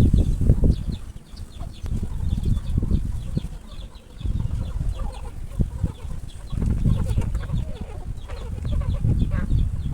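Chickens clucking and cheeping in many short, high calls, over a low rumble that swells and fades several times.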